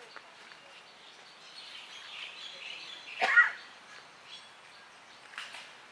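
Outdoor ambience with birds chirping, and one short, loud, wavering bird call about three seconds in.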